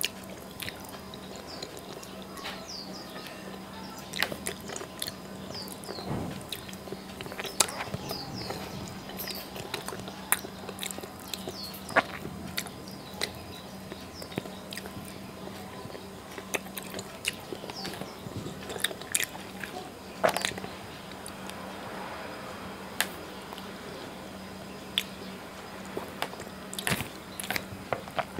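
A man chewing a mouthful of rice and fish curry, picked up close by a clip-on microphone: many scattered wet mouth clicks and lip smacks, irregular and close together, over a steady low hum.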